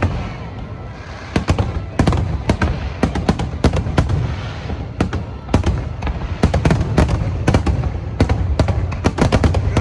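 Aerial firework shells bursting in rapid succession: many sharp bangs, several a second, over a continuous low rumble.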